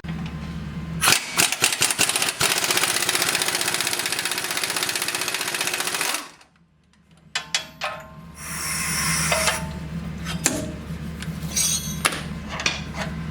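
Pneumatic impact wrench hammering in one long run of about five seconds that cuts off suddenly, followed by metal clanks and a second, shorter run, over a steady low hum.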